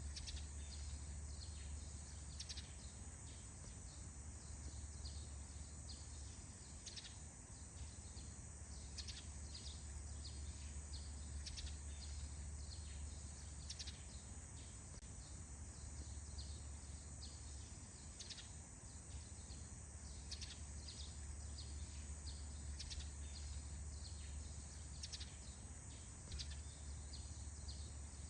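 Forest dawn ambience: scattered short bird chirps over a steady high insect drone and a low rumble.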